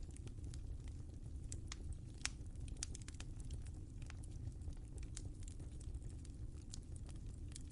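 Wood fire crackling in a fireplace: irregular sharp pops and snaps, one louder snap a little after two seconds in, over a steady low rumble of the burning fire.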